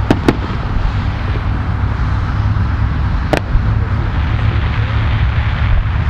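Fireworks bursting: two sharp bangs in quick succession at the start and another about three seconds later, over a steady low rumble.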